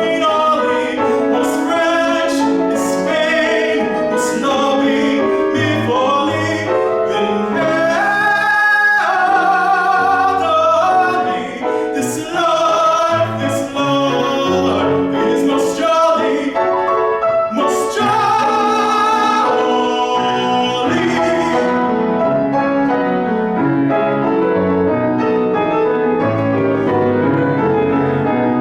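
Classical art song for solo voice and piano: a trained singer with wide vibrato over a piano accompaniment. The voice stops about three-quarters of the way through, and the piano carries on alone.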